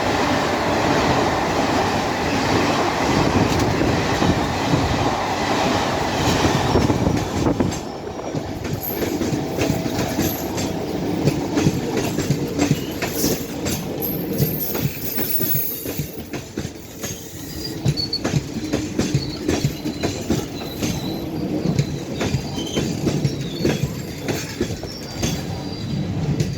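Express train passing at speed, its wheels clattering over the rail joints with occasional brief squeals. It is loudest for the first seven seconds or so, then the clatter goes on a little quieter.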